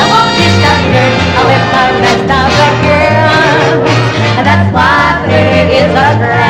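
Live band music: a steady bass line steps along about twice a second under wavering melody lines.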